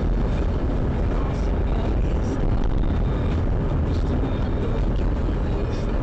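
A car driving along: steady low engine and road rumble, with no impact heard.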